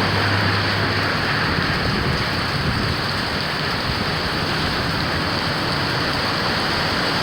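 Heavy hurricane rain from Hurricane Beryl falling in a steady, unbroken hiss.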